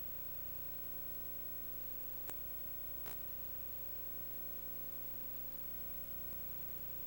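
Steady hiss with a low hum and a faint steady tone, broken by two faint clicks about two and three seconds in.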